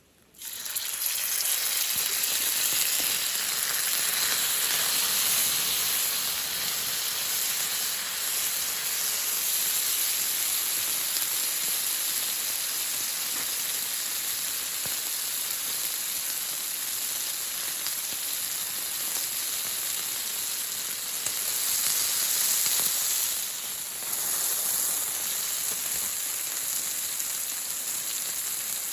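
Loud, steady hissing and sizzling noise, an even wash strongest in the high range. It switches on and off abruptly.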